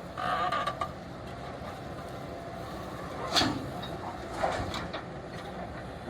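Diesel engine of a backhoe loader running steadily. A sharp metallic clank about three and a half seconds in, the loudest moment, and a smaller knock about a second later.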